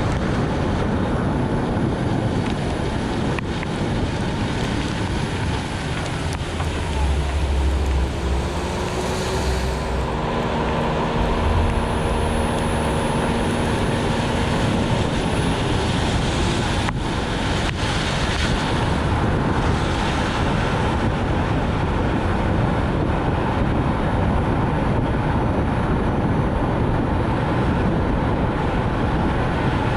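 Steady road noise of a Nissan Note e-POWER driving on a rain-soaked road: tyres hissing on wet pavement along with rain and wind. A low hum with a gliding tone rises over it for several seconds in the middle.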